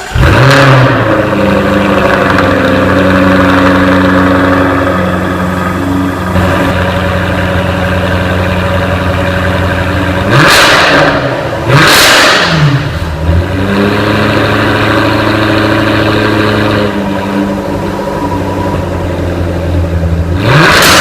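2015 Jaguar F-Type R Coupe's supercharged 5.0-litre V8 firing up with a loud flare, then idling steadily through its exhaust. The throttle is blipped twice, about ten and twelve seconds in, with a further rev near the end.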